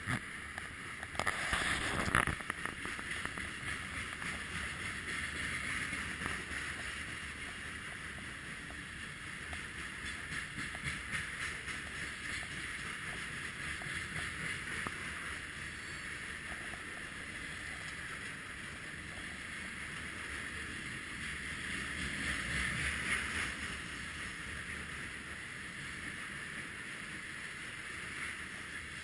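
Freight train of covered hopper and tank cars rolling past close by: a steady rattle and hiss of steel wheels running on the rails, with a louder clatter about two seconds in.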